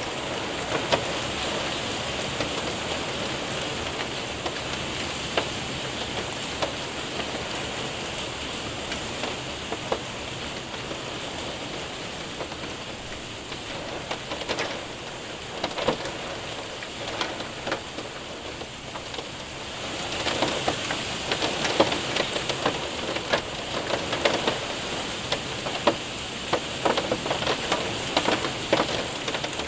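Hail and rain hitting a window and roof: a steady rush of rain with many sharp ticks of hailstones, which grow denser and louder about two-thirds of the way through.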